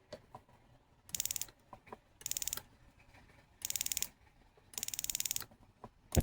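Four short bursts of rapid, fine ratcheting clicks, each about half a second long and about a second apart, followed by a single sharp knock near the end.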